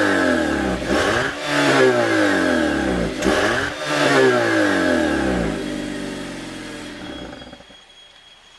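Nissan Serena's engine heard through a Kakimoto KRnoble Ellisse aftermarket muffler, revved twice while standing still: each time the pitch rises quickly, holds and falls back. It then settles to a steady idle and fades out near the end.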